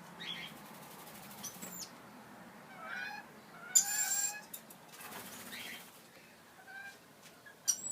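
Lorikeets calling: a few short chirps that glide in pitch, and one loud, harsh screech about four seconds in.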